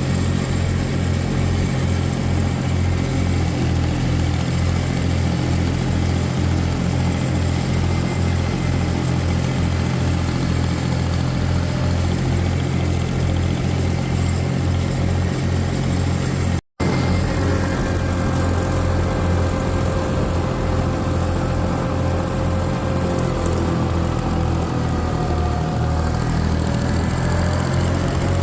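Tractor engine running steadily at a constant speed, cutting out for an instant about two-thirds of the way through.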